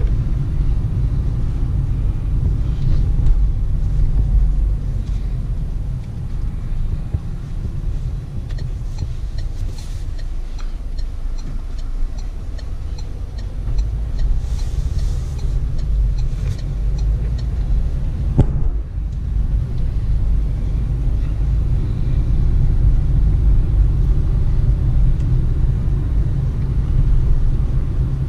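Interior cabin noise of a Peugeot Partner van on the move: a steady low rumble of engine and road. A sharp click about two-thirds of the way through, and a run of faint even ticks a third of the way in.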